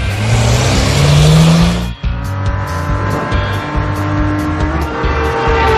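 Cartoon vehicle sound effect: an engine revving up with a rising pitch and a rushing noise for about two seconds, cutting off suddenly, followed by cheerful background music with a steady beat.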